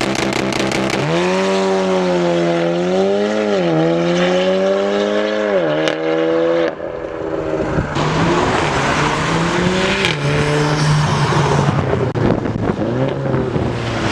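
Straight-piped stage 2 VW Golf R's turbocharged four-cylinder exhaust running loud at high revs, its pitch wavering up and down, with a sudden drop about six and a half seconds in before it picks up again.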